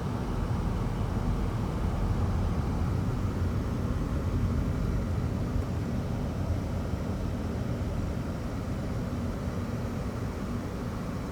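Low, steady rumble of road traffic, swelling a little a few seconds in and easing off toward the end.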